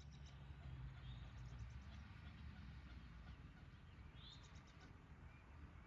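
Near silence: faint outdoor ambience with a low rumble and a few faint high chirps and short trills from small birds or insects.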